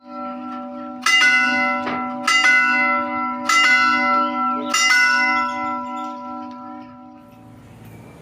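Four bell-like chime strikes about a second apart over a held low tone, the last ringing out and fading.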